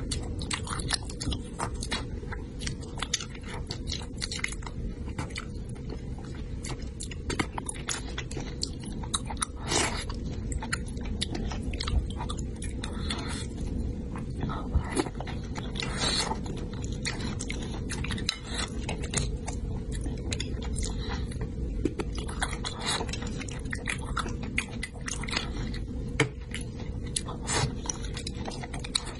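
Close-miked chewing of spicy braised fish and rice: wet mouth clicks and smacks coming thick and irregular throughout, over a steady low hum.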